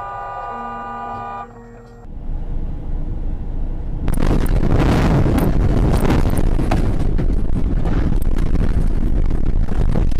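A car horn sounds steadily for about a second and a half, then stops. From about four seconds in, a loud steady rushing noise with scattered clicks takes over, like road and wind noise heard from inside a moving car.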